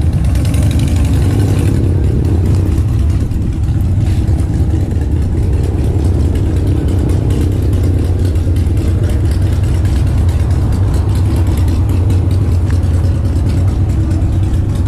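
A vehicle engine running steadily close by, a loud, even low-pitched note with no clear revs.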